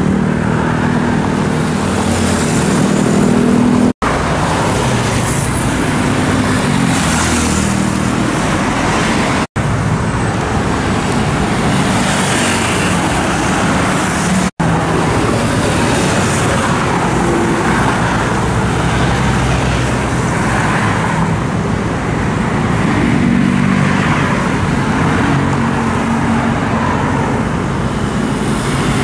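Heavy road traffic: a steady mix of truck, car and motorcycle engines, with vehicles passing one after another in swells of engine and tyre noise.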